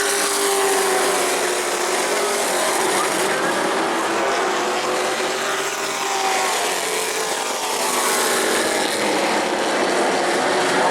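Race trucks' engines running at speed around a paved short track. The engine pitch rises and falls as the trucks pass.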